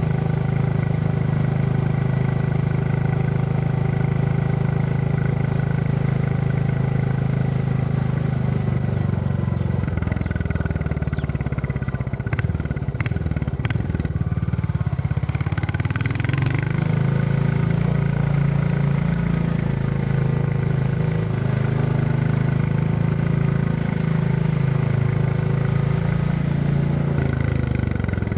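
Royal Enfield Classic 350's single-cylinder engine thumping steadily while riding. About ten seconds in the engine note drops and wavers for several seconds, with a few sharp clicks, then settles back to a steady run.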